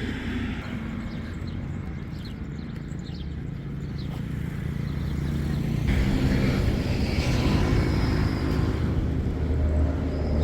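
A motor vehicle's engine running, a steady low rumble that grows louder about halfway through as it comes closer, with traffic around.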